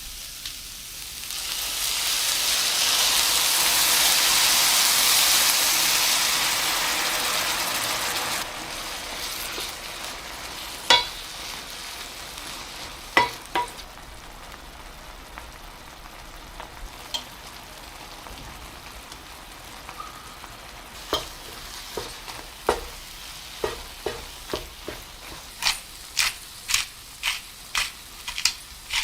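Food sizzling in a hot frying pan. The sizzle is loud for the first several seconds and drops off suddenly about eight seconds in, leaving a quieter sizzle. A utensil clicks against the pan now and then while stirring, with quick taps near the end.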